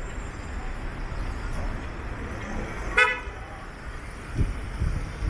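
A single short vehicle horn toot about three seconds in, over steady low street rumble.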